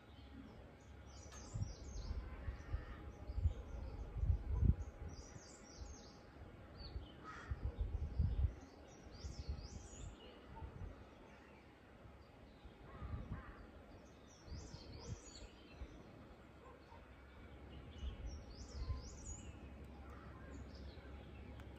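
Birds calling outdoors in short, high gliding chirps, in scattered clusters with gaps between, over a quiet background with occasional low rumbles.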